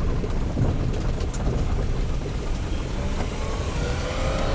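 Steady low rumble of a vehicle on the move. A faint whine rises slowly in pitch over the last second and a half.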